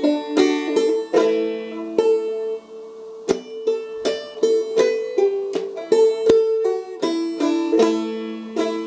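Five-string banjo played clawhammer style in double C tuning: a short lick of plucked notes and brushed strums over a ringing drone, with a pause a little before the middle.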